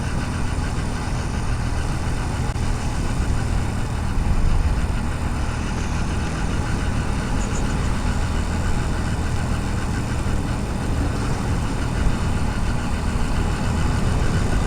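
Motorcycle engine running steadily while riding, heard from a helmet-mounted GoPro, with a constant low hum under steady road and wind noise.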